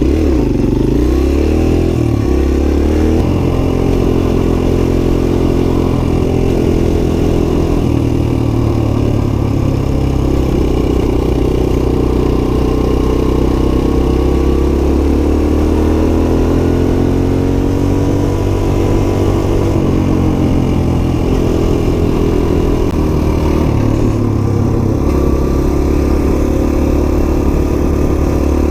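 Suzuki DR-Z125 dirt bike's small single-cylinder four-stroke engine running under way, its pitch rising and falling over and over as the throttle opens and closes and gears change.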